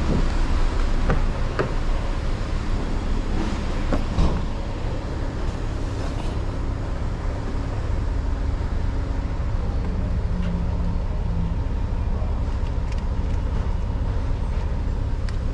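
Steady low rumble of car engines running nearby, with a few sharp knocks in the first four seconds.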